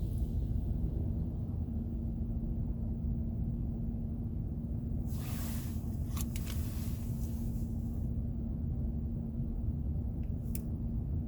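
Touchless automatic car wash heard from inside the van: a steady low rumble and hum from the wash equipment, with short bursts of spray hiss about five seconds in and again near the end.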